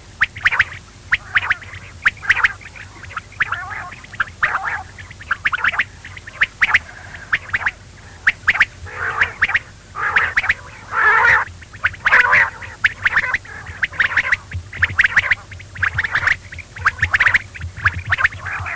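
Quail calling over and over in quick, short notes, with a steady low hum underneath.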